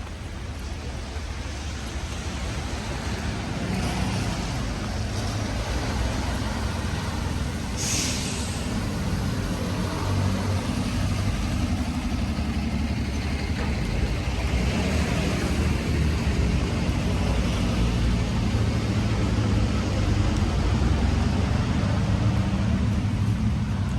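Road traffic: a heavy vehicle's engine running with a low rumble that grows steadily louder, with a short sharp hiss about eight seconds in.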